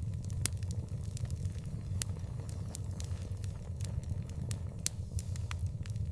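Wood fire in an outdoor fireplace crackling: irregular sharp pops and snaps, a few loud ones among many small ones, over a low steady rumble.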